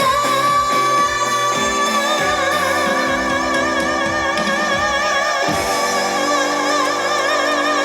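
A female trot singer holds one long, high final note with vibrato over the song's backing music, whose chords change about halfway through.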